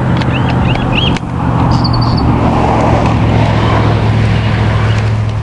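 A steady low mechanical hum under a broad rushing noise, with a bird chirping briefly about two seconds in.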